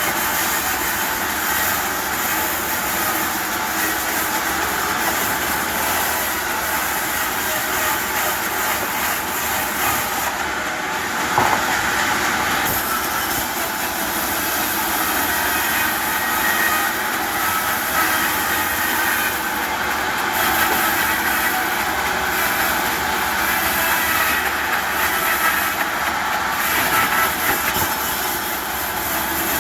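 Sawmill machinery running steadily, a continuous noisy mechanical drone, with one sharp knock about eleven seconds in.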